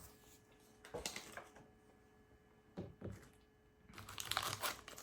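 A few small light clicks and taps of hands handling small toy pieces and packaging. From about four seconds in, these give way to busier crinkling of a blind-pack wrapper.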